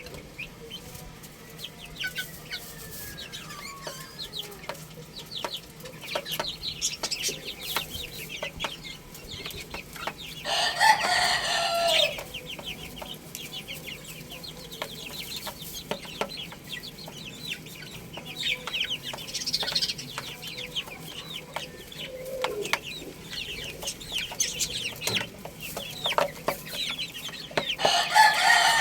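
Chickens: chicks peeping in short rapid chirps, with clucking and one loud rooster crow lasting about a second and a half, about a third of the way in. Another loud call starts right at the end.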